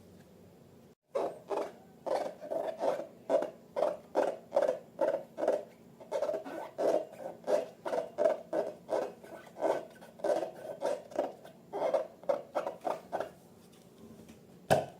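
Slime being squeezed and kneaded by hand, squishing in a steady rhythm of about two to three squelches a second, with one sharp click near the end.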